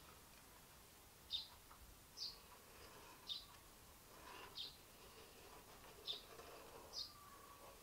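A small bird chirping faintly in the background: about six short, high chirps, each dropping slightly in pitch, spaced roughly a second apart over near silence.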